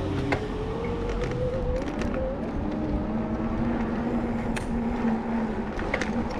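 Street traffic: a motor vehicle's engine running close by, its pitch slowly rising and then holding steady, with a few sharp clicks.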